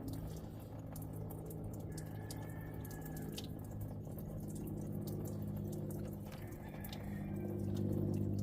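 Coolant dripping from the engine into a catch can, irregular small drips over a steady low hum.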